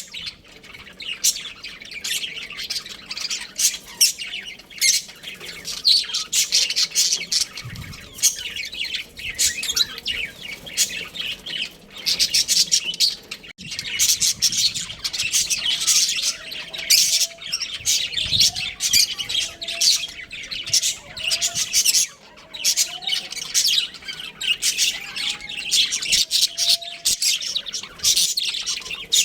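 Budgerigars chirping and chattering continuously, many rapid high chirps and squawks overlapping, with some softer warbling notes in the second half.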